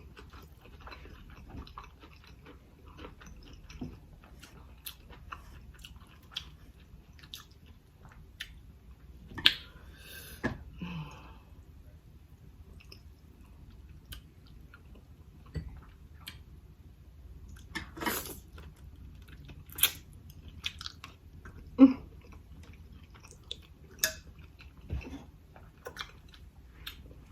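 Close-miked mouth sounds of eating seafood and rice: chewing and smacking, with scattered sharp clicks and a few louder snaps.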